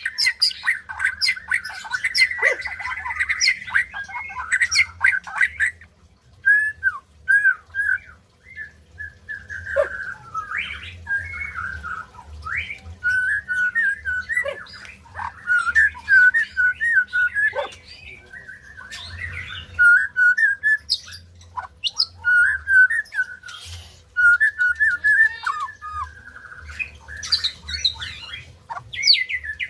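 White-rumped shama singing: a long, varied run of quick whistled notes and warbling phrases, with a burst of sharp clicking notes in the first few seconds.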